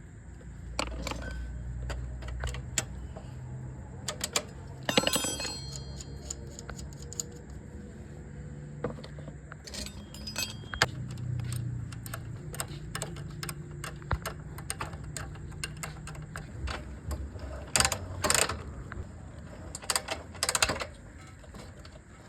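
Metal objects clinking and clicking on and off, with a brief ringing clatter about five seconds in and a few louder strikes near the end, over a low steady hum.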